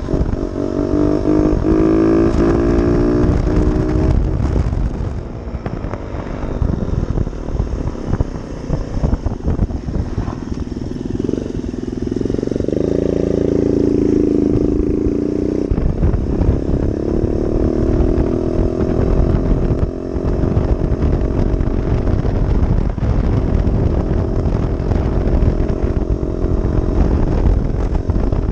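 Yamaha TT-R90 dirt bike's small air-cooled four-stroke single-cylinder engine running under way, its pitch climbing and falling as the throttle is opened and closed. A rough rumble with many small knocks runs underneath.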